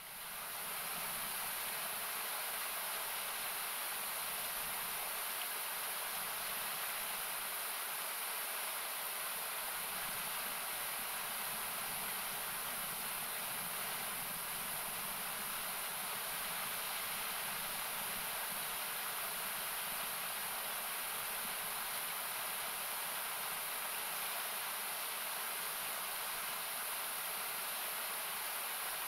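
Steady rushing of a river or waterfall, heard as an even hiss with the highs strongest, partly cut back with an equaliser.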